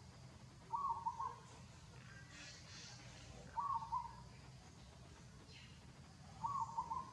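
An animal call repeated three times at an even pace, about three seconds apart: each call is a short, warbling, mid-pitched note lasting about half a second.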